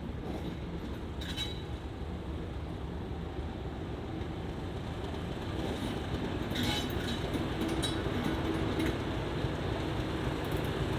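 Class 50 diesel locomotive's English Electric 16-cylinder engine running with a steady low drone, growing louder as it draws closer. A few short, sharp metallic squeaks and clinks come from the wheels on the track, about a second in and again after about six seconds.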